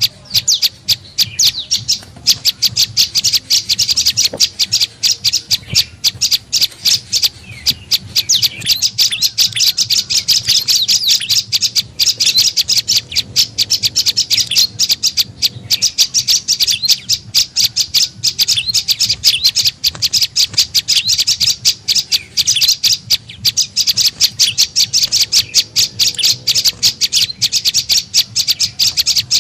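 Prenjak lumut song used as a lure call: a fast, unbroken series of sharp, high chirps.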